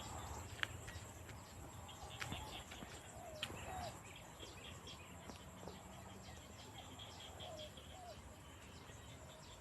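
Faint outdoor background: a steady, evenly pulsing insect chirring, with a few short chirping calls and some sharp clicks.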